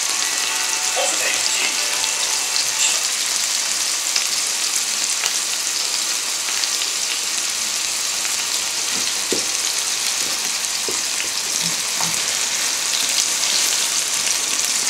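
Chicken breasts and onion slices frying in oil in a nonstick pan: a steady, even sizzle.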